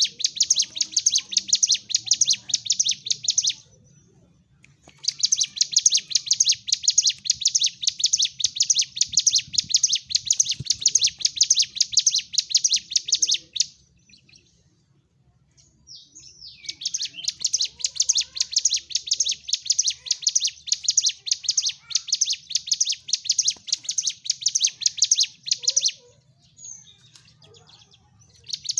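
Ciblek gunung, a mountain prinia, singing its rapid fighting song (gacor tarung). A fast run of sharp, high, repeated notes comes in long bursts of several seconds, broken by short pauses.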